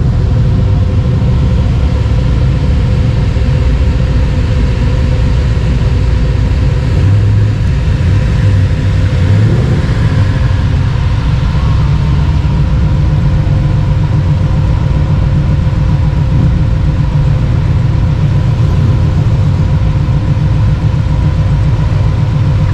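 Car engine idling with a steady low rumble and fast, even exhaust pulses.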